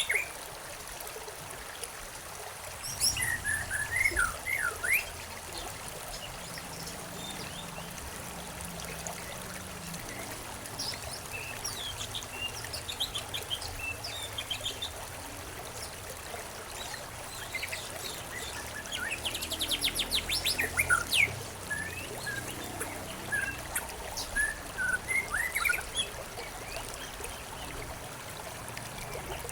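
Songbirds chirping in scattered short bursts, with a fast trill about two-thirds of the way through, over a steady trickle of flowing water.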